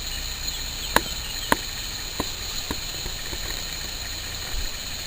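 Steady hiss of gusty storm wind, broken by a few sharp ticks about a second in and over the next two seconds.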